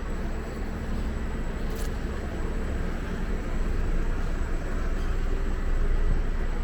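Bus engine idling, a steady low rumble with a hum, and a brief click about two seconds in.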